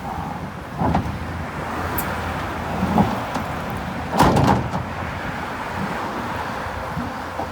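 Heavy earthmoving machine engine running steadily, with several clanks and scrapes of metal and rock. The loudest clatter comes about four seconds in.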